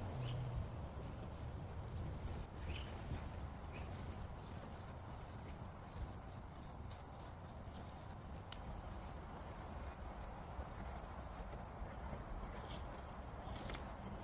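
Outdoor nature ambience: small birds or insects giving short, very high chirps over and over, about once or twice a second, with a few lower chirps now and then over a steady low rumble.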